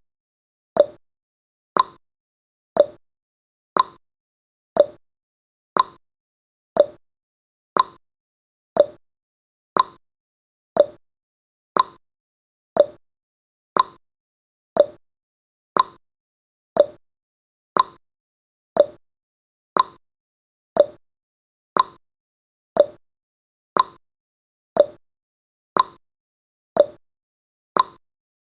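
Countdown timer's ticking sound effect: a short sharp tick once every second, evenly spaced.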